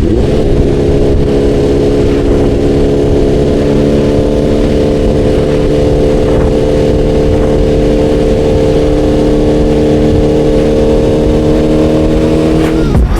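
BMW S 1000 RR inline-four sport bike engine pulling under load while riding, its pitch slowly rising, with wind rush. Near the end the pitch drops sharply.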